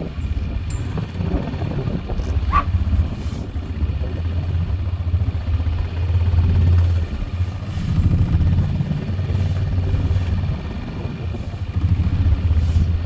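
Four-wheeler (ATV) engine running under load while plowing snow, its low drone swelling and easing every few seconds.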